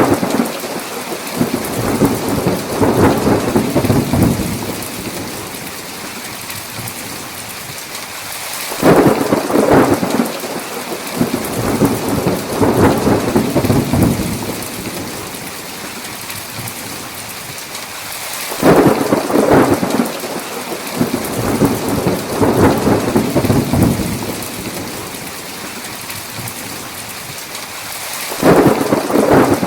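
Thunderstorm: steady heavy rain with rolls of thunder that break in suddenly and rumble for about five seconds each. A roll is still fading at the start and new ones come in three more times, about every ten seconds.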